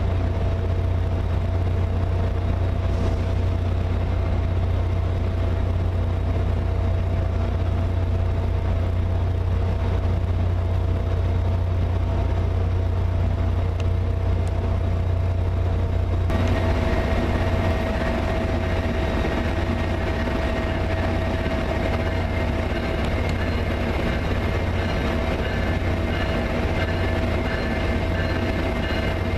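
Diesel train locomotive running at a standstill, a loud steady low drone with a steady mid-pitched tone over it. About sixteen seconds in, the sound changes abruptly and higher steady whining tones join.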